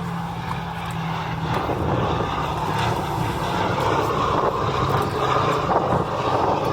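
Boeing B-17G Flying Fortress in flight, its four Wright Cyclone radial engines droning steadily and growing a little louder.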